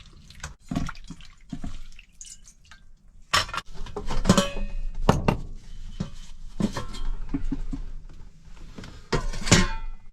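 Dishes and cooking utensils being handled: irregular knocks and clatter, with a few clinks that ring briefly, the loudest near the end, over dripping water.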